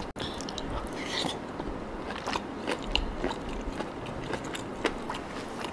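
A person chewing a mouthful of rice and meat close to the microphone, with irregular small wet mouth clicks and smacks.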